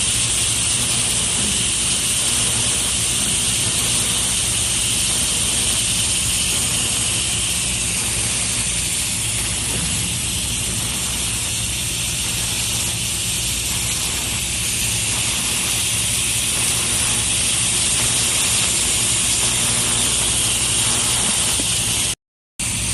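TIG welding arc burning steadily: a constant hiss with a low hum under it, cutting off suddenly about 22 seconds in.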